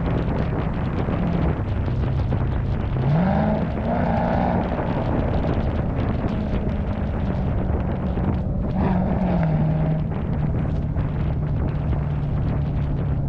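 V8 car engine idling with a low, rough rumble, revved briefly twice: once about three seconds in and again near the middle.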